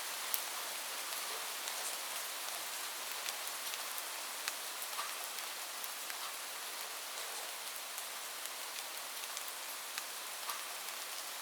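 Steady rain falling on a surface, an even hiss dotted with sharp ticks of individual drops.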